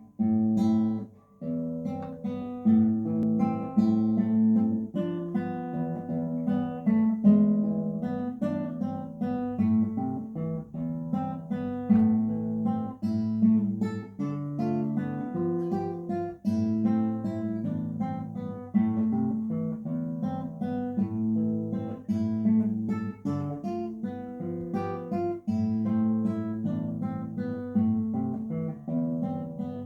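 Acoustic guitar playing an instrumental passage of picked chords and single notes at an even tempo.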